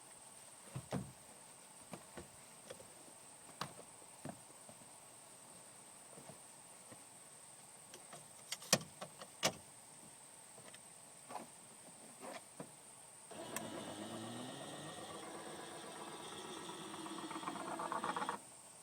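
Scattered clicks and knocks, then an electric motor of a powered vehicle seat base runs for about five seconds, rising in pitch, and cuts off suddenly.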